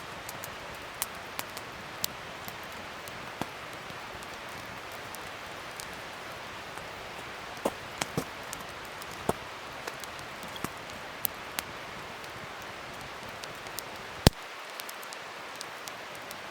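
Wood fire burning: a steady hiss with scattered sharp crackles and pops, one pop much louder than the rest near the end.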